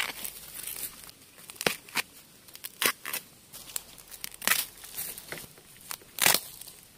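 Young bamboo shoots being pulled and snapped off by hand: a string of irregular sharp cracks and tearing snaps, the loudest about four and a half and about six seconds in.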